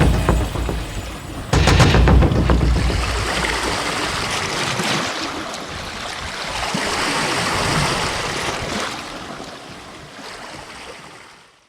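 Sea waves washing on the shore: a wave breaks suddenly about a second and a half in, another swells later, and the sound fades out to silence at the end.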